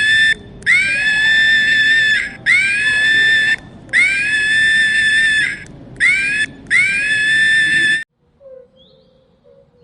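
A series of six loud, high-pitched screaming calls from an animal, each swooping up at its start and then held steady, some short and some over a second long, stopping about eight seconds in.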